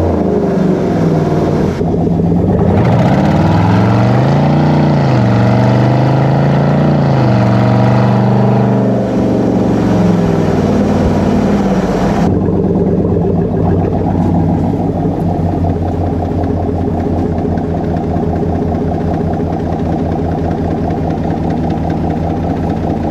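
Chevy Silverado's 5.3-litre V8 exhaust through a true dual setup with Borla Atak crate mufflers, the note climbing and dropping with the throttle while driving. About halfway through it settles into a steadier, lower drone.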